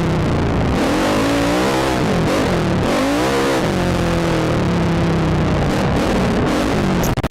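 Quad (ATV) engine revving up and down as it is ridden, its pitch rising and falling several times.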